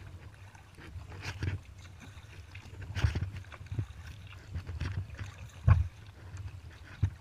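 Kayak paddle strokes, with splashes and drips about once every second or so and a few low knocks, the loudest a little past halfway.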